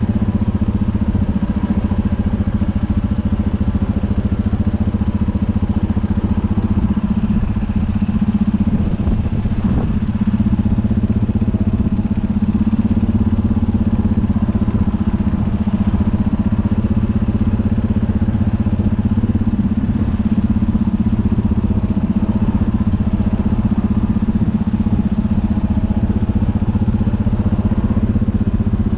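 U650 tractor's diesel engine running steadily at constant speed, with a small knock about ten seconds in.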